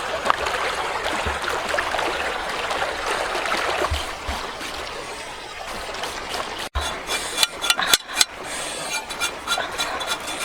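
Water trickling and splashing. About two-thirds of the way through it cuts out abruptly and is followed by a series of sharp clicks and crackles.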